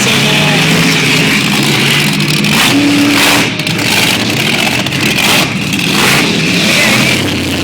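Monster truck engines running loud on the lot, revving up in surges a few times.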